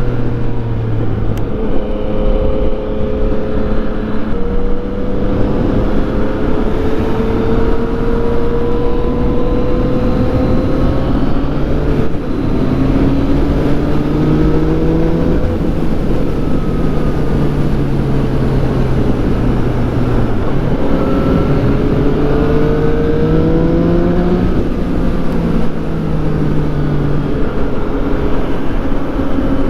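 2014 Yamaha FZ-09's 847 cc inline-three engine under way, its pitch climbing as it accelerates and dropping sharply at each upshift, several times, over a steady rushing noise.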